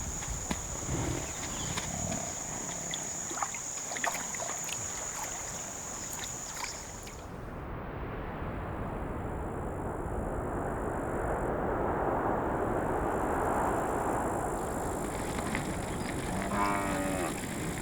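Cape buffalo herd field sound. A steady high insect buzz runs over the first half. After a cut comes a rushing noise that swells mid-way, and a buffalo's short lowing call is heard near the end.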